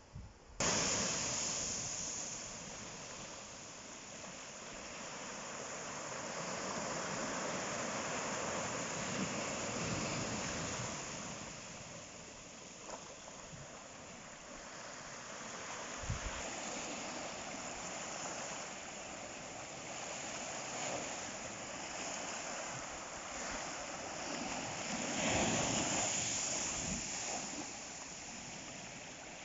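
Ocean surf breaking and washing up the shore: a steady rushing hiss that swells and ebbs with each wave, starting abruptly about half a second in, with a louder wave near the end.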